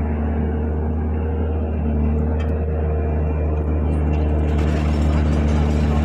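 Road roller's diesel engine running steadily with a low, even hum, growing a little louder about three-quarters of the way in.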